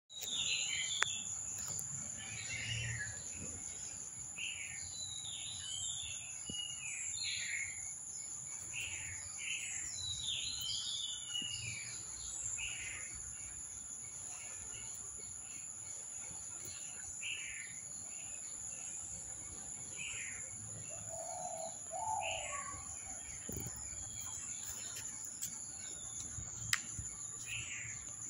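Birds chirping: many short, quickly repeated falling calls, thicker in the first half, over a steady high-pitched whine. A couple of sharp clicks stand out.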